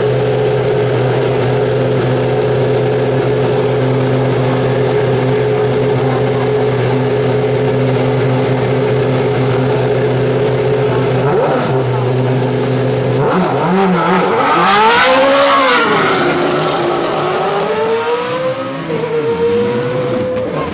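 A steady pitched engine drone gives way, about thirteen seconds in, to a race car's engine coming past at full throttle. Its pitch swings up and drops back through gear changes around the loudest moment, then climbs again as it pulls away up the hill.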